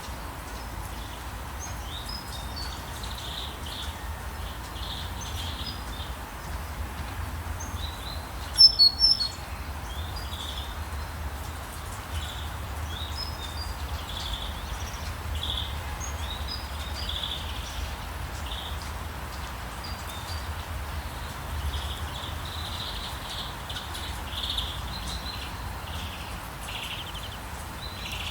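Songbirds chirping and calling repeatedly, with a burst of loud, high chirps close by about nine seconds in, over a steady soft hiss and low rumble of morning ambience.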